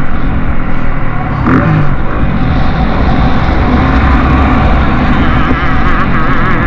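Motocross bike engines running loud on the track, their revs rising and falling quickly as the riders work the throttle.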